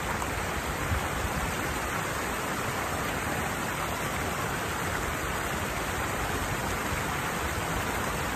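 Steady rush of water pouring down a small waterfall into a stream.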